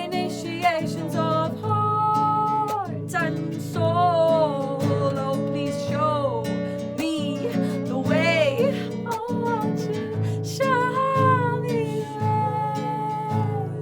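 Music: a strummed acoustic guitar under a high melody line of long, wavering held notes.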